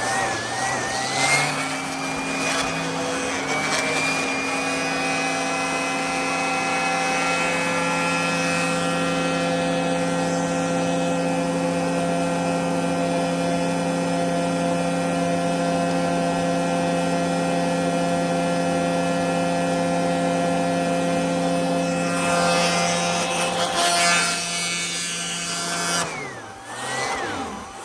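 Vacuum cleaner motor running with a steady hum and whine. Its pitch climbs for the first few seconds, then about two seconds before the end the motor winds down briefly and spins back up.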